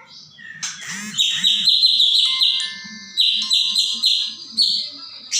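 Young white-rumped shamas calling in a rapid series of short, rasping chirps, about four a second, starting about half a second in.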